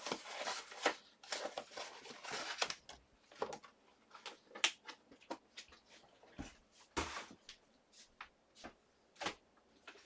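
Paper being handled: a few seconds of rustling and shuffling, then scattered light taps and clicks on the desk.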